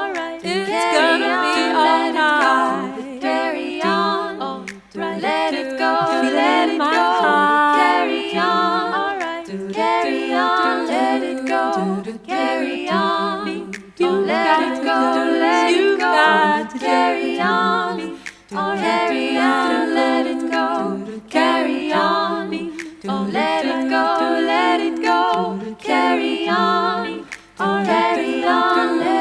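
A cappella vocal music: several layered voices singing in harmony with no instruments.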